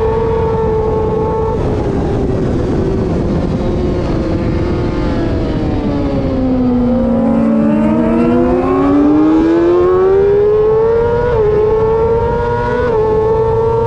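Racing motorcycle engine at high revs, its pitch sinking slowly for several seconds as the bike slows, then climbing again as it accelerates, with two quick upshifts near the end. Wind rush runs underneath.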